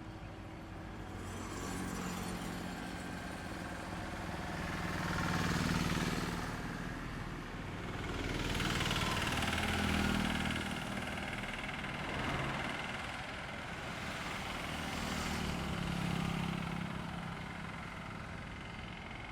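Road traffic passing on a highway: several vehicles go by one after another, each engine and tyre noise rising and fading, the loudest passes about six seconds in, around ten seconds and about sixteen seconds in.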